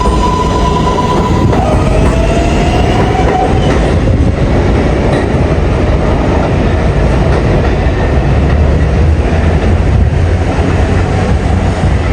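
R142A subway train pulling away: its propulsion motors whine with a steady tone that drops in pitch about a second and a half in and then climbs slowly as the train gathers speed, over a continuous loud rumble and clatter of steel wheels on the track.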